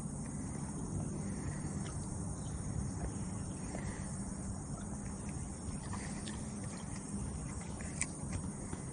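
Steady outdoor riverside ambience of insects chirring, over a low steady hum, with a few faint clicks, one more distinct near the end.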